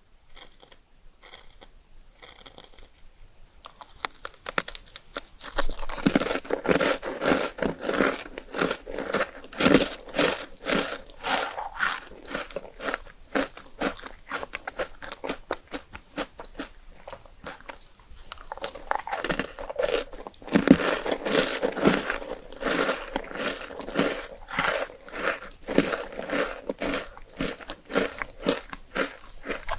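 Crunchy bites and close-up chewing of puffed rice cakes spread with chocolate, a run of loud crisp crunches. A few faint clicks come first, the crunching starts about four seconds in, eases off about halfway through, then comes back strongly.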